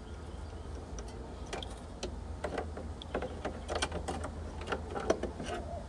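Irregular small clicks, ticks and rubbing from hands working plastic wiring and fittings inside a heat pump cabinet, busier from about a second and a half in, over a steady low hum.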